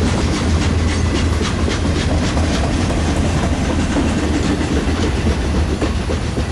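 Railcars of a passing freight train rolling by, wheels clicking over the rail joints above a steady low rumble.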